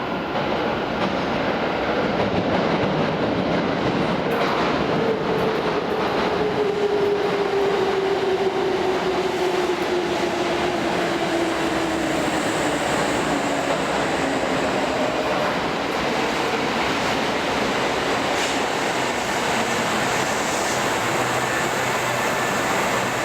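Kintetsu 8000 series electric train pulling into the station and slowing. Its motor whine falls steadily in pitch over about ten seconds, over the rumble and clack of the wheels on the rails.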